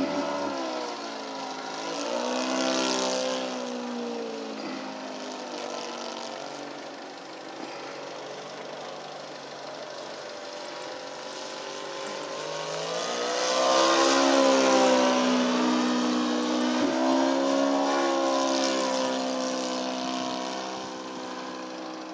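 Laser 200V four-stroke V-twin glow engine of an RC biplane running in flight, its pitch rising and falling as the plane flies past, loudest on a close pass about two-thirds of the way in.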